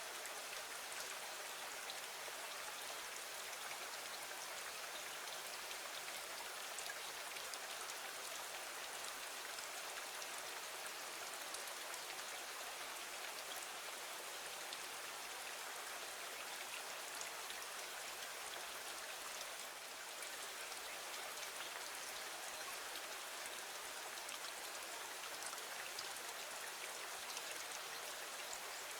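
Steady rain falling: an even hiss with faint scattered ticks of drops, unchanging throughout.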